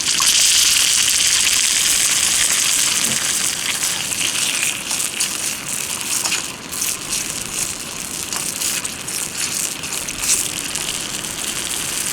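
Soy sauce and mirin sauce sizzling and bubbling hard in a hot pan over a campfire, with many small irregular crackles. The hiss comes in suddenly at the start.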